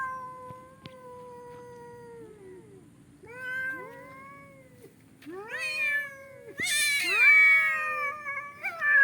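Two cats caterwauling at each other in a fighting standoff: long, drawn-out yowls that rise and fall in pitch. They get louder and overlap from about five seconds in, with a harsh, rougher yowl around seven seconds.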